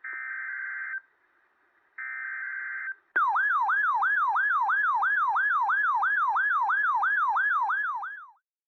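Emergency Alert System broadcast tones: two one-second bursts of the screeching digital data header, a second apart. Then, about three seconds in, a loud alert tone that sweeps down in pitch about three times a second for some five seconds and cuts off suddenly.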